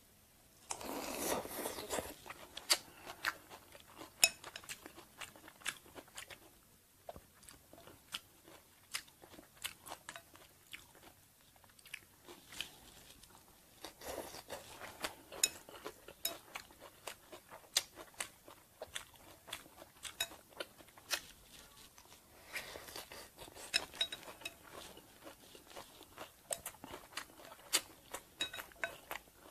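A person chewing and crunching mouthfuls of Banh Chhev, a crispy Cambodian rice-flour crepe, with fresh leafy greens. The sound is irregular crisp crunches and wet chewing clicks, denser and louder each time a new bite goes in.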